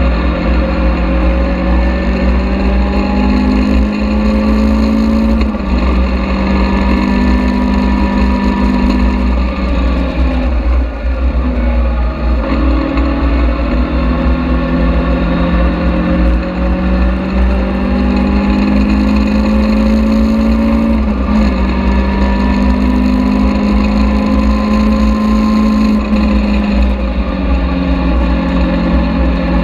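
Caterham Seven's engine running hard on track. Its note climbs steadily and drops back at gear changes about every five to ten seconds, with a brief dip near the middle, over a heavy low rumble of wind and road noise in the open cockpit.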